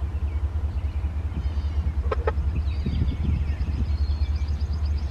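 Small birds chirping and trilling in quick repeated notes from about halfway in, over a steady low rumble that is the loudest sound.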